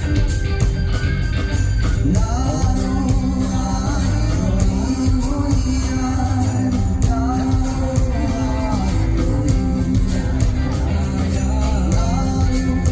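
Live rock band playing loudly, with drums, bass and electric guitar under a lead melody line that bends and slides in pitch from about two seconds in.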